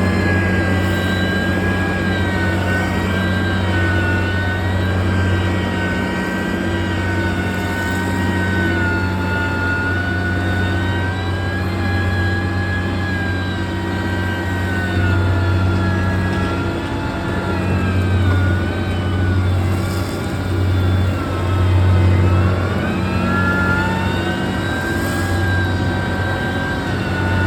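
Diesel engine of a heavy road-construction machine running steadily under load, with a low hum and a whine above it that drifts slowly up and down in pitch.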